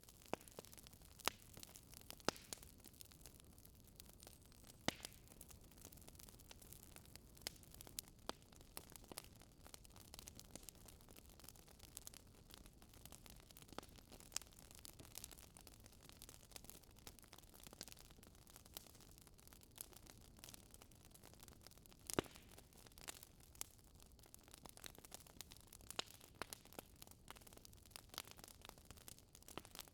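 Faint fireplace crackle: irregular sharp pops and snaps over a low steady hiss.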